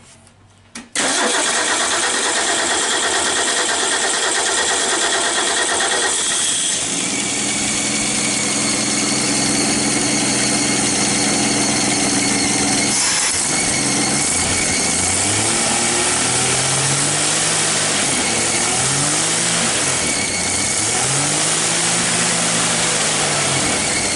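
A 1968 Ford Mustang's straight-six engine, running on a freshly rebuilt single-barrel carburetor, fires up about a second in and keeps running. It settles into a steady run, then is revved up and down several times in the second half: the rebuilt carburetor works.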